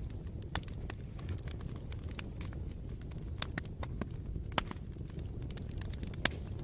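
Campfire crackling: irregular sharp pops and snaps over a low rumble, with two louder pops in the second half.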